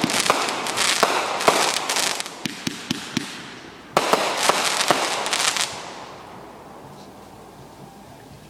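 Consumer fireworks going off in two rapid volleys of crackling bangs and pops, the first lasting about three seconds and the second starting about four seconds in, then dying away.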